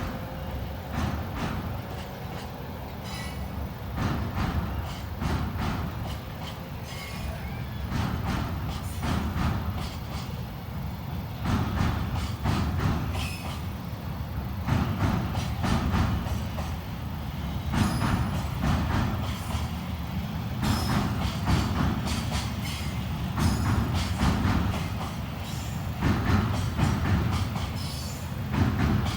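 Container freight train rolling past slowly as it pulls away from a signal stop. The wagons' wheels clack over rail joints in repeated groups every second or two over a steady low rumble, with a few brief wheel squeals.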